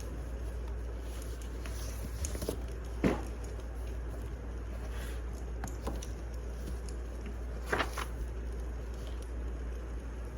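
Wood fire crackling over a steady low rumble, with scattered sharp pops; the loudest come about three seconds in and again near the eight-second mark.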